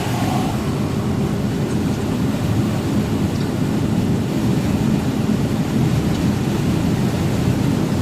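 A truck on the move: steady low engine and road rumble.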